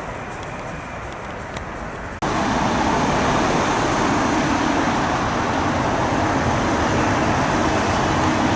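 Steady outdoor traffic noise, then an abrupt cut about two seconds in to louder, steady jet airliner engine noise from an aircraft approaching to land.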